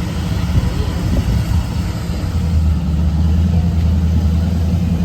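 A car engine running steadily with a low hum that grows a little louder about halfway through.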